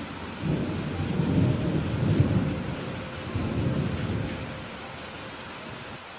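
Steady rain hissing, with a low roll of thunder rumbling through from about half a second in, loudest in the first half and fading out about five seconds in.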